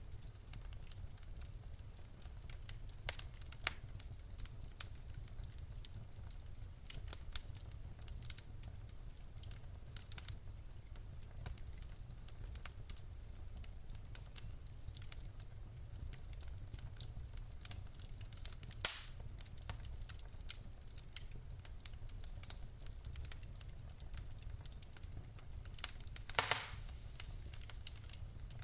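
Wood fire burning in a fireplace: steady crackling with scattered small pops over a low rumble, a sharp louder pop about two-thirds of the way through, and a short burst of louder pops with a brief hiss near the end.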